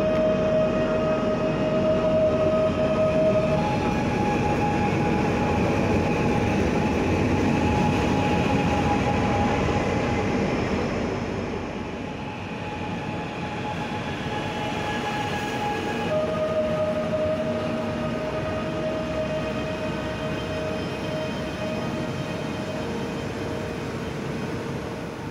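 Train running on the rails, a steady rumble and rush with a thin whine over it. The whine steps up in pitch about three and a half seconds in and drops back down about sixteen seconds in.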